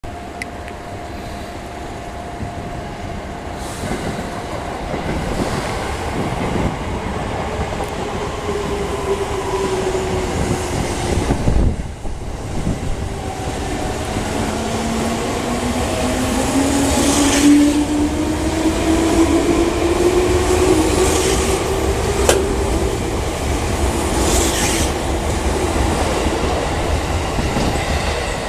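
A JR 205 series electric train pulling away from a station. Its traction motors and gears give a whine that rises steadily in pitch as it picks up speed, over the rumble and clatter of the wheels on the rails.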